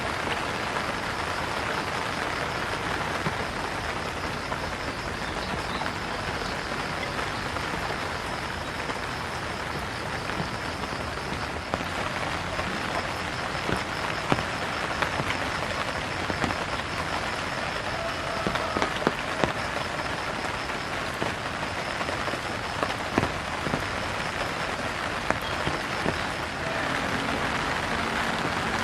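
Steady rain falling on roofs and ground, with scattered sharper drips and splashes. A faint, high, rapidly pulsing chirr runs underneath for much of the time.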